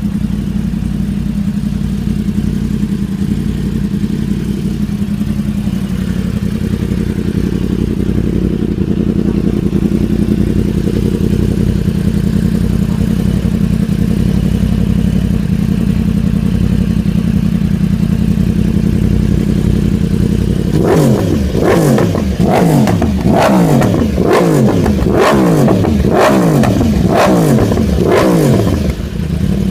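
Yamaha R1M's crossplane inline-four idling steadily through an Austin Racing aftermarket exhaust. About two-thirds of the way in, it is revved in a quick series of about ten sharp throttle blips, each dropping straight back, before it settles to idle again near the end.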